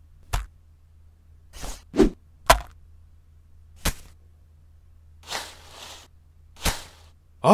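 Short sharp clicks and knocks of vegetables being handled in a wicker basket, about seven spaced irregularly, with a couple of brief rustles among them.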